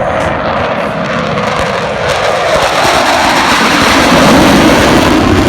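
Jet noise from a Blue Angels F/A-18 Hornet making a low pass. The noise builds to a peak about four seconds in while its pitch drops as the jet goes by.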